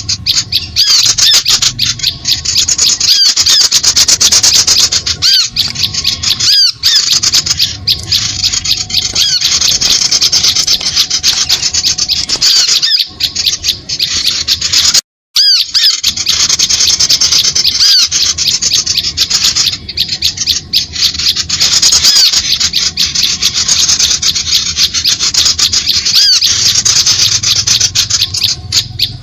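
Bird-lure (pikat) recording of small birds calling: a loud, dense, unbroken tangle of high-pitched chirps and squeaks, used to draw small birds to a birdlime trap. The sound cuts out for a moment about halfway through, where the recording loops, then resumes the same.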